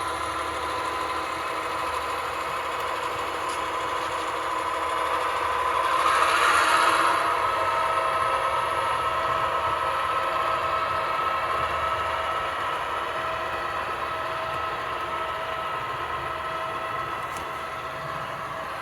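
A pair of HO scale Athearn SW1500 switcher locomotives running on the layout with a steady hum, swelling about six seconds in and easing off slowly afterwards.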